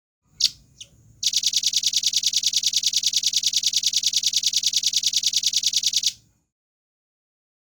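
Velvet-fronted nuthatch calling: two short high notes, then a fast, even trill of about ten notes a second lasting about five seconds, which cuts off sharply.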